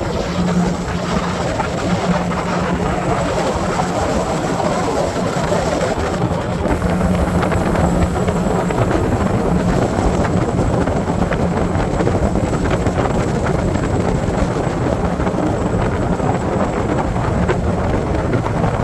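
Motorboat engine running steadily at cruising speed, a constant drone under the rush of wind and water.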